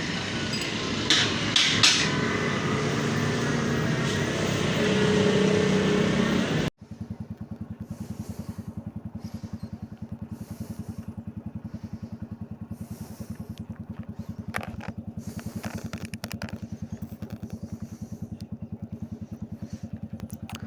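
For the first few seconds, loud steady shop noise with a couple of sharp clicks. After a sudden cut, a Yamaha YBR 125's single-cylinder engine idles with an even, quick pulsing beat.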